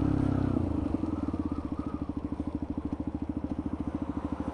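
Motorcycle engine easing off from a steady drone within the first second and settling into idle, with an even, rapid exhaust beat. The exhaust is one the rider finds too noisy even with a baffle fitted.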